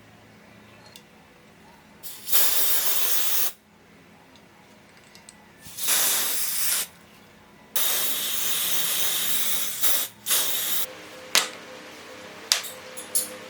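Spraying hiss in three long bursts, the last nearly three seconds, then a few short puffs near the end.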